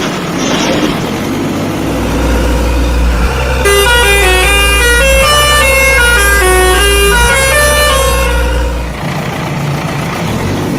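Deep, steady truck-engine rumble with a tinkling jingle of short stepped notes playing over it from about four to eight and a half seconds in.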